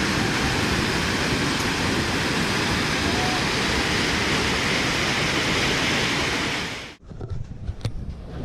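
Steady rushing of a flooded, overflowing river. It cuts off suddenly about seven seconds in, leaving a quieter stretch with a few faint clicks.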